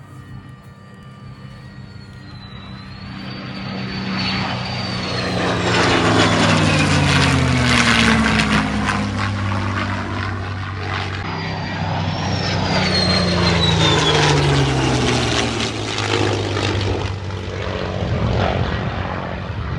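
Propeller airplane engine flying past at an air show, swelling in loudness and dropping in pitch as it goes by, then a second drop in pitch and swell a few seconds later.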